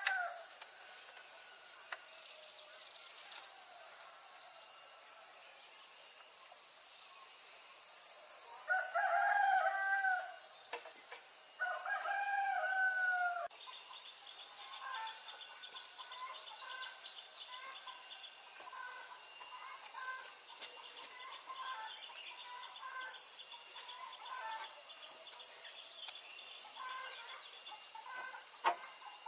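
Rooster crowing twice, each crow an arching call of a second or two, about eight and eleven seconds in, over a steady high-pitched buzz. Short scattered chicken-like notes follow in the second half.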